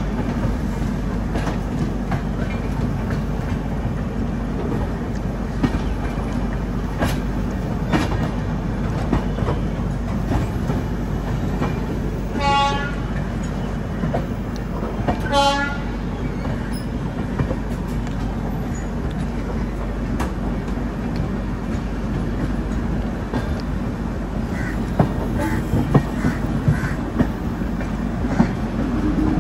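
Indian Railways passenger express running over jointed track, heard from an open coach door: a steady rumble with the clickety-clack of wheels over rail joints. Two short horn toots come about three seconds apart midway, and a run of louder clacks near the end as the wheels cross points.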